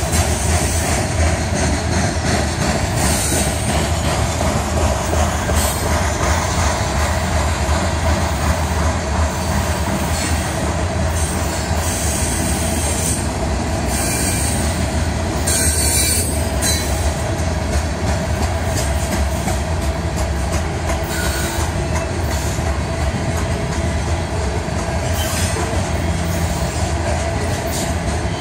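Freight train of covered hopper cars passing close by: a steady rumble and rattle of steel wheels rolling on the rails.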